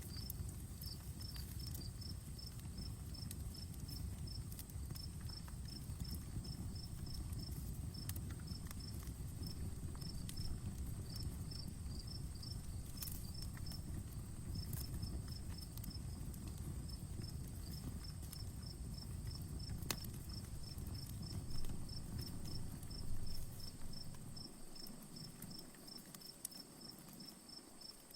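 Outdoor campfire crackling with scattered sharp pops, under steady chirping of crickets. A low rumble drops away near the end, leaving the crickets and the odd crackle.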